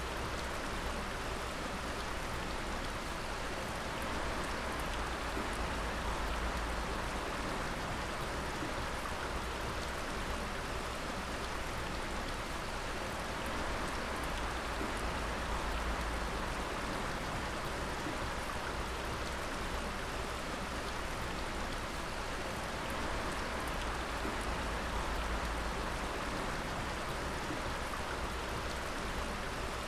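Water dripping and splashing steadily, a dense patter of many drops, over a low rumble.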